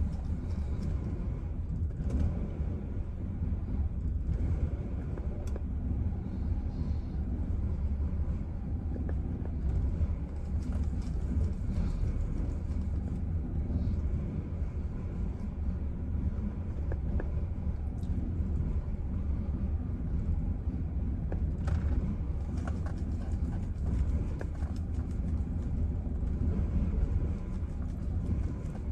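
Chevrolet Silverado engine idling: a steady low rumble.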